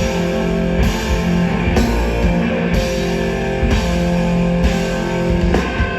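Live rock band playing an instrumental passage: distorted electric guitars holding sustained chords over bass and a drum kit, cymbal crashes about once a second.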